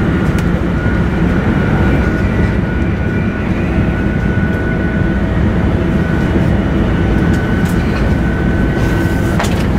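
Joetsu Shinkansen bullet train running at speed, heard from inside the passenger cabin: a steady deep rumble of running noise with a faint steady high whine over it. A brief sharp click comes near the end.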